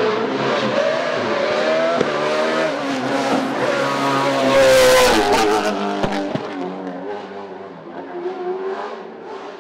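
Racing car engine at high revs, its pitch climbing and dropping with gear changes. It is loudest about halfway through, then fades as the car pulls away.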